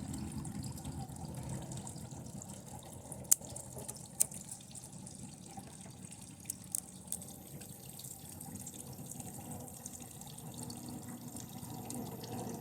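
TV circuit board burning under high current from a lead-acid battery: a steady hiss with sharp snaps about three and four seconds in and a few more near the middle. A thin high-pitched whine comes in about halfway through.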